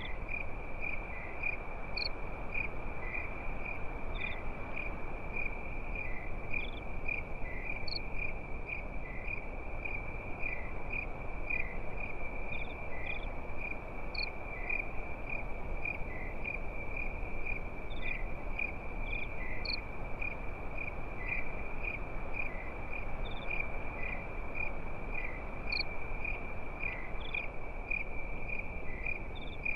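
Crickets chirping at night: a continuous high, rapidly pulsing trill, with a fainter higher chirp about every two seconds. A soft, steady hiss lies underneath.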